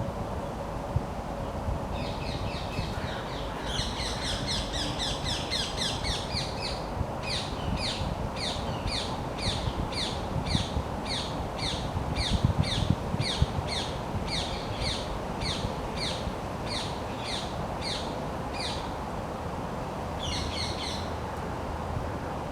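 A bird calling in a long series of short, high chirps repeated about two to three times a second, starting a couple of seconds in and stopping about three-quarters through, with a brief second burst near the end. Steady low background noise underneath.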